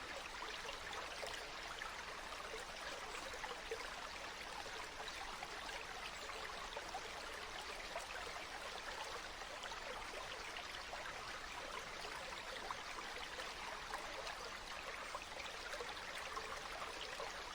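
Flowing water of a stream, a steady rushing sound with fine flickering detail and no separate events.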